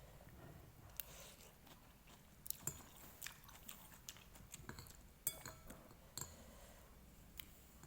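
Someone eating noodles: soft chewing and mouth sounds with scattered short smacks and clicks, the sharpest about five seconds in.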